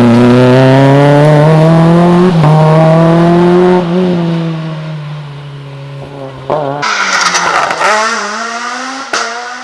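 Rally car engine at high revs accelerating past, its pitch rising with a gear change about two seconds in, then fading as it goes away. About seven seconds in, another rally car's engine cuts in loud at high revs with a hiss, the revs dropping briefly about a second later.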